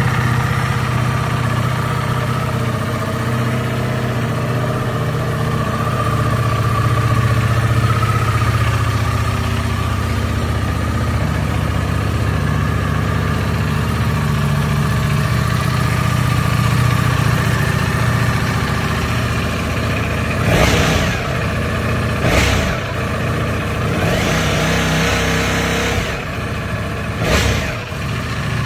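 Ducati Streetfighter V4 S's V4 engine idling steadily, with four brief louder sweeps in the last third.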